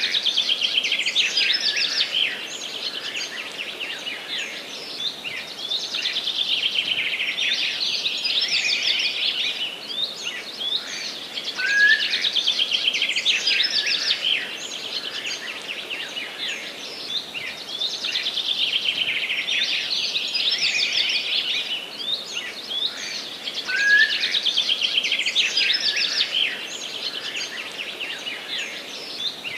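Forest songbirds singing: overlapping phrases of rapid high trilling notes, swelling and fading every few seconds, with a short rising note about every twelve seconds.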